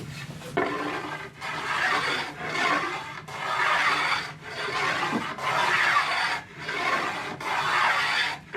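A hand tool being worked back and forth across a workpiece in about eight rasping strokes, roughly one a second, with short pauses between strokes.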